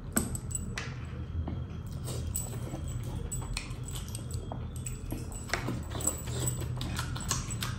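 Close-miked eating sounds: wet chewing and lip-smacking of mutton and rice eaten by hand, with many short irregular clicks and crackles, over a low steady hum.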